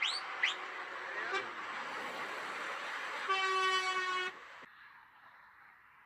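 A truck passing and sounding its air horn once, a steady horn blast of about a second starting about three seconds in. Two short rising whistles come right at the start.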